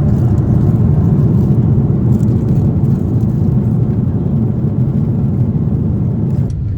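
Steady rumble of cabin noise inside a Boeing 747-8 airliner, engine and airflow noise with no words over it. Near the end it cuts suddenly to a duller, slightly quieter rumble.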